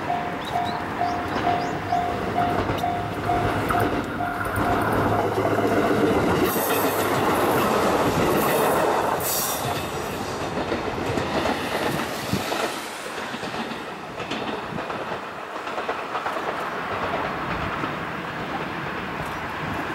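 A two-car KiHa 220 diesel railcar train passing, its wheels clattering over the rail joints, loudest in the middle with brief high-pitched wheel squeals, then fading away. A rapid repeating beep, about two a second, sounds at the start and stops about a quarter of the way in.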